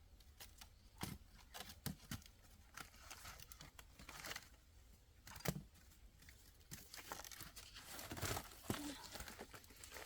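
Faint rustling and crinkling handling noises with scattered light clicks and knocks; the loudest is a sharp knock about five and a half seconds in.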